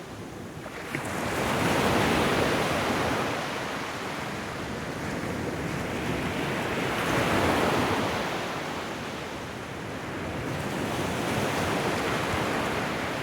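Ocean waves washing onto a shoreline, the surf swelling and ebbing in three slow surges.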